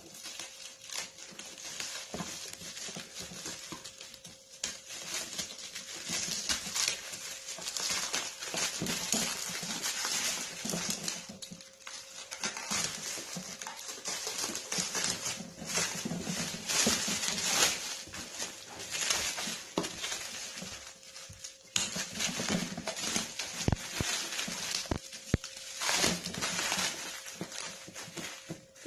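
Cardboard box and packaging being handled and opened: continuous rustling and scraping with scattered sharp knocks and clicks.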